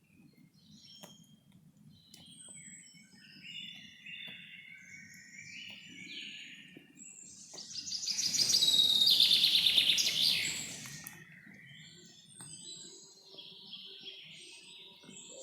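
Several songbirds calling and singing in woodland over a faint low background rumble, with one loud bird giving a rapid run of repeated notes that falls in pitch, about eight seconds in and lasting a couple of seconds.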